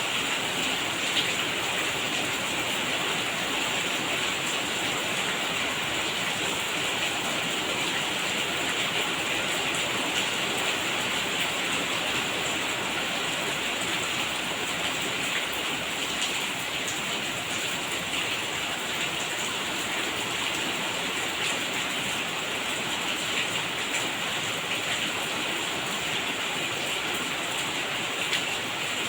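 Steady rain falling, an even hiss of water with scattered fine drop ticks.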